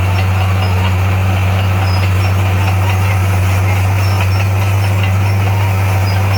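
Bulldozer's diesel engine running steadily with a deep, even hum that holds the same pitch throughout.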